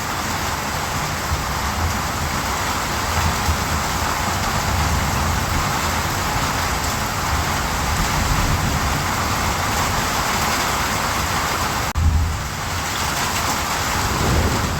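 Steady rain falling, with a low rumble underneath. About twelve seconds in, the sound drops out for an instant and picks up again.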